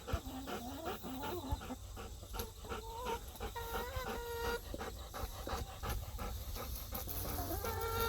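A golden retriever panting rapidly, with short pitched calls over it.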